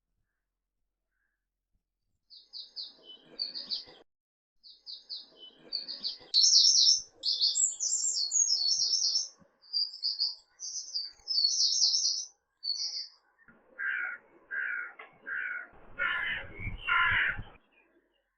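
Small birds chirping and trilling in quick high phrases, starting about two seconds in. Near the end a different bird gives a lower call five times in a row, about one a second.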